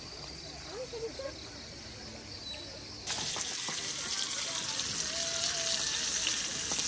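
Quiet camp background, then about three seconds in a steady sizzling hiss starts abruptly: food frying in a pan.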